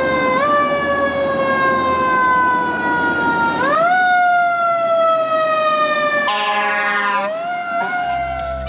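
Siren wailing: its pitch leaps up and then slides slowly down, starting over about half a second in, again about three and a half seconds in, and once more near the end.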